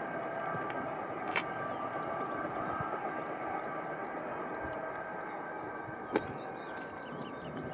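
A train running on the line: a steady rumble with a few steady tones over it, slowly fading. A sharp click comes about a second and a half in, and a louder one about six seconds in.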